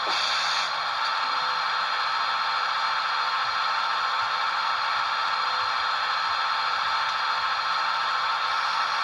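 Rapido RDC model's DCC sound decoder playing diesel railcar engine sound through its small onboard speaker: a steady, hissy drone with several whining tones. A short hiss comes right at the start.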